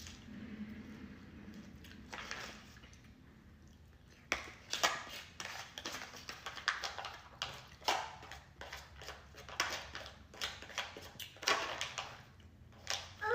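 Close-up eating sounds: wet chewing smacks and mouth clicks, irregular, a few a second, starting about four seconds in after a quieter stretch.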